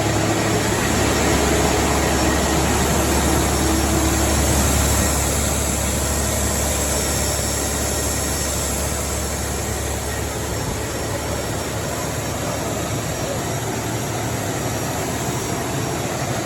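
Rebuilt Caterpillar C15 diesel of a Kenworth W900 running steadily on a chassis dyno: a deep constant drone under a thick hiss, easing slightly about halfway through.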